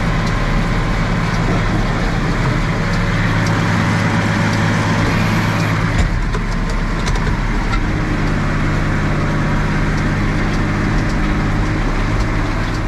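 John Deere 3650 tractor's diesel engine running steadily under load, with a dense mechanical clatter over it and a single brief knock about six seconds in.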